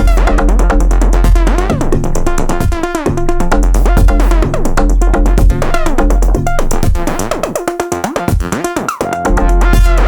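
Experimental electronic music from a drum machine and synthesizers: a heavy deep bass under dense glitchy textures, with swooping pitch glides and rapid clicks. The deep bass drops out for a few seconds past the middle, leaving a fast stuttering pulse, and comes back near the end.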